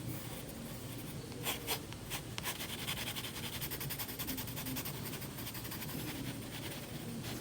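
A drawing tool scratching and rubbing on paper in short strokes, with a few sharper strokes about a second and a half in.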